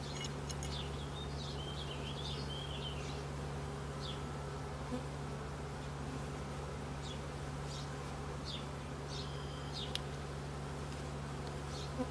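Honeybee colony buzzing in a steady hum from the opened hive while its frames are being inspected.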